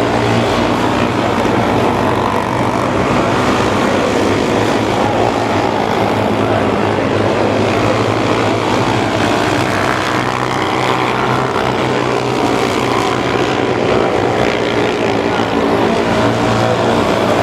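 Several mini sprint race cars' small engines running hard together on a dirt oval, a steady, loud, buzzing blend of engine notes with no break.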